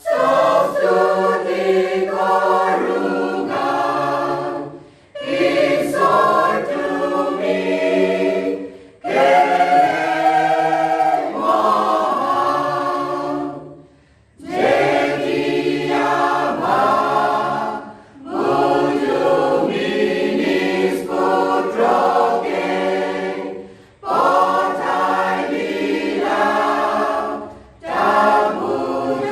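A choir singing, in phrases of a few seconds each with short breaks between them.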